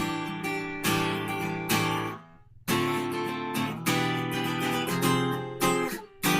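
Guitar strumming a chord progression of seventh chords, about one chord a second, each stroke left to ring.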